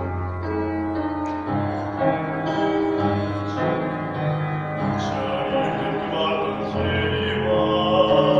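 Choir singing held notes that change about every second, over deep bass notes.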